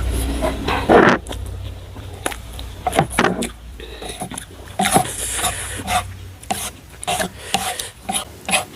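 Eating instant noodles with chopsticks: irregular clicks and scrapes of the chopsticks against the bowl, with chewing between them.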